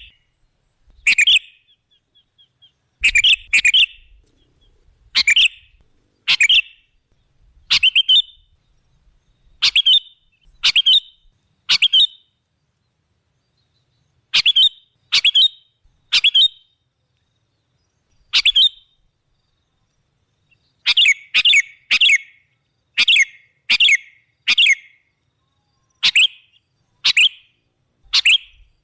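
Sooty-headed bulbul (kutilang) giving short, sharp chirping calls about once a second, sometimes in quick pairs or triplets, with a few gaps of two to three seconds. It is a lure call recording used to draw in wild birds for trapping.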